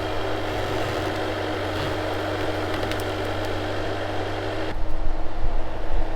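Bobcat skid steer's diesel engine running steadily under load, with some irregular knocks and rattles near the end.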